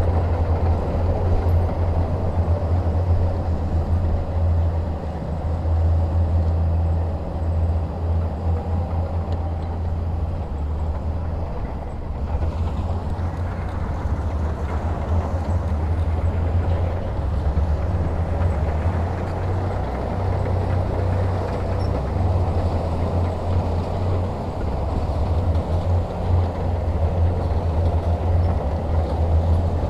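Heavy diesel engine running steadily, a deep low rumble with mechanical noise above it.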